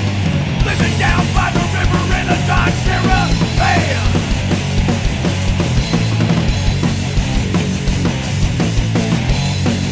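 A hardcore punk band playing loud and fast, live: distorted electric guitars, bass and drums.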